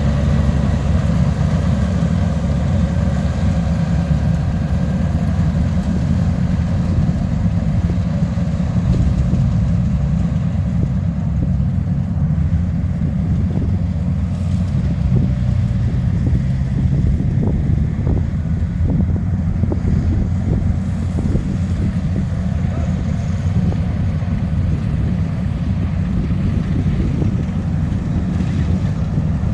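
A rice combine harvester's engine running steadily while it cuts: a low, even hum that holds the same pitch throughout.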